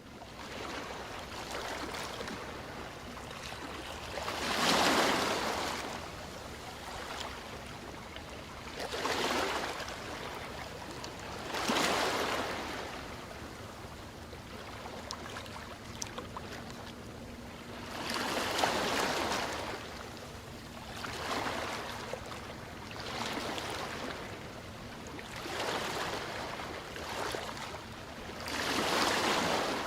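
Ocean waves breaking and washing on the shore, with a swelling rush of surf every few seconds, the loudest about five, twelve and nineteen seconds in, over a steady wash of water.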